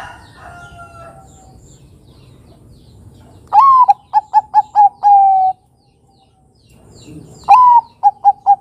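Zebra dove (Bangkok-type perkutut) cooing twice. Each call opens with a rising note, runs into several quick short coos, and ends on a long held coo. Faint chirps of other birds come near the start.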